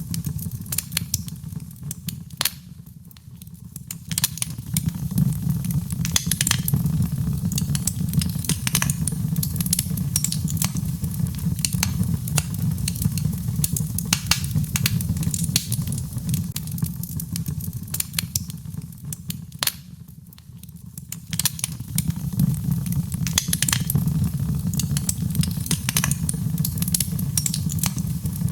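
Birchwood burning in a fireplace, crackling with frequent sharp pops over a steady low rumble. The crackling thins briefly about three seconds in and again about twenty seconds in.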